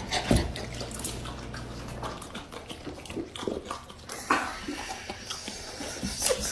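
Water splashing and dripping, with many short irregular splashes.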